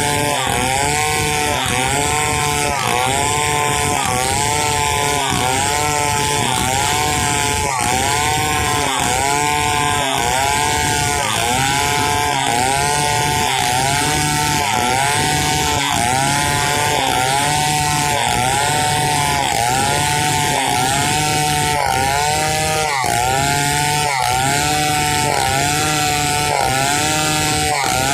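Stihl 070 two-stroke chainsaw running at full throttle while ripping a log lengthwise into planks. Its engine pitch dips and recovers about once a second as the bar is worked through the cut.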